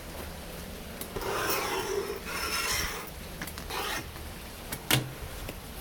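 Chairs scraping as they are tipped over: two scrapes of about a second each, then a few short knocks. Steady rain falls underneath.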